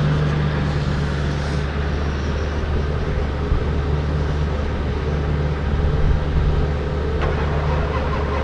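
Truck engine during a hard cold start in freezing weather, popping and trying to catch, with a steady low engine drone throughout.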